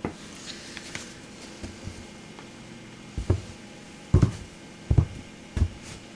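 Boots stamping down on a toy truck: faint clicks at first, then four heavy thuds, roughly one a second, starting about three seconds in.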